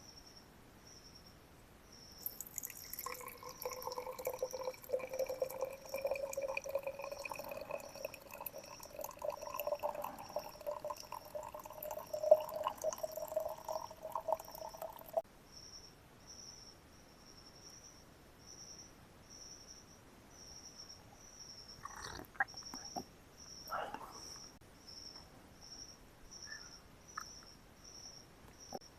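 Liquid poured into a bottle for about thirteen seconds, its pitch rising steadily as the vessel fills. A high insect chirp pulses about twice a second throughout, and a couple of light knocks come near the end.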